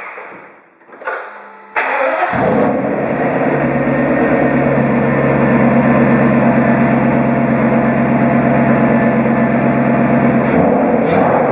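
Mercedes M119 5.0-litre V8 in an R129 SL500, freshly overhauled, being started: it is cranked and catches about two seconds in, then runs steadily at idle. The sound changes near the end.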